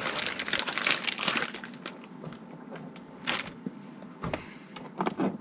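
Crinkly packaging rustling and crackling as it is handled for about two seconds, then a few scattered taps and short rustles.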